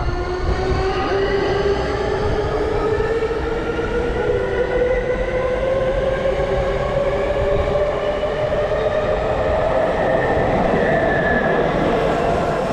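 Electric commuter train accelerating, its traction motors whining steadily higher in pitch over the low rumble of the wheels on the track.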